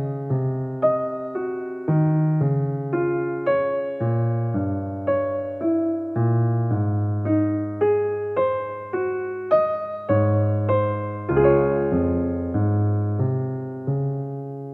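Background piano music: a gentle melody of single struck notes over low bass notes, about two notes a second, ending on a held chord that rings and fades near the end.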